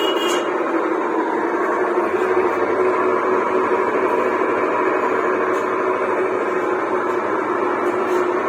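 Onida top-load fully automatic washing machine running with a steady mechanical noise, the noise that comes with a faulty clutch assembly.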